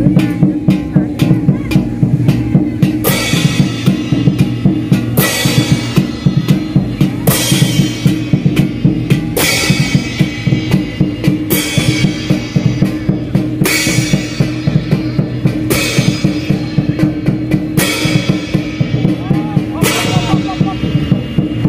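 Percussion music: fast, dense drumming with a loud cymbal crash about every two seconds.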